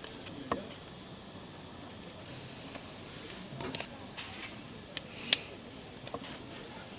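Wood fire crackling: scattered sharp pops and clicks over a low steady hiss, the loudest pop a little past five seconds in.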